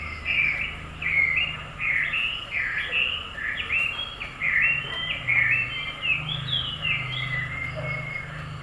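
Small bird chirping: a continuous run of short, quick high chirps, over a low steady hum.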